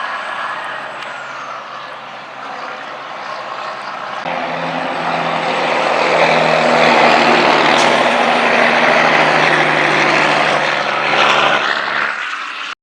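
Big rig's diesel engine and tyres passing close by, with a steady low engine drone. It gets louder about four seconds in, stays loud for several seconds, then cuts off abruptly near the end.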